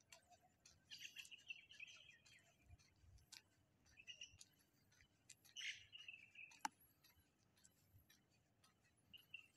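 Faint birds chirping in several short bouts, with scattered light ticks and one sharp click about two-thirds of the way through.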